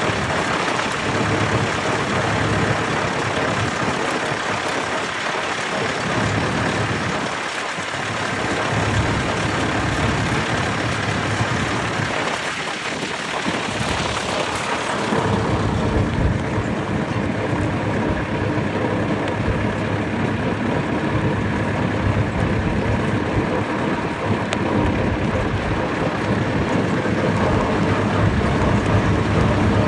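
Vintage tractor engines running, under a heavy hiss that fades about halfway through, leaving the low engine sound stronger.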